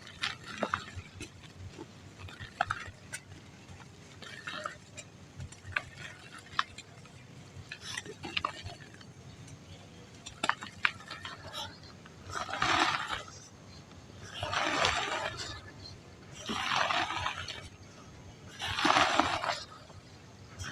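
Dry mud lumps crumbling: scattered sharp cracks and snaps in the first half, then four longer gritty crunching bursts, each about a second long and about two seconds apart.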